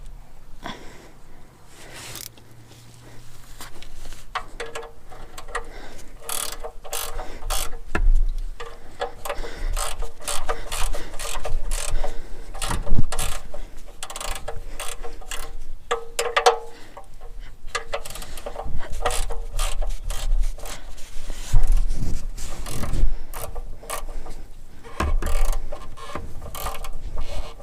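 Socket ratchet wrench clicking in quick runs of strokes, as a bolt is turned on the truck during the oil change.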